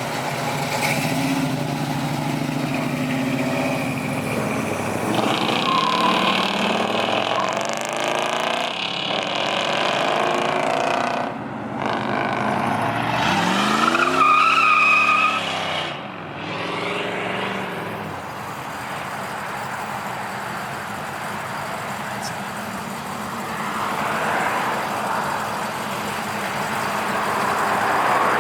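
Car engines running as cars drive by, with one engine revving up and back down about halfway through, then a steadier rush of passing traffic.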